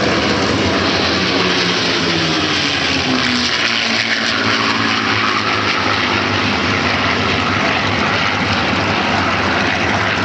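P-51 Mustang fighters' Merlin V-12 engines in a low formation pass, the engine note dropping in pitch as they go by, with a rushing swell of propeller and air noise about halfway through.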